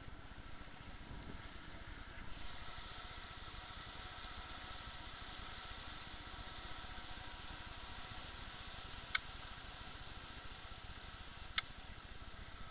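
A motorboat's engine running steadily, with a steady hiss of wind and water. Two short sharp clicks come near the end.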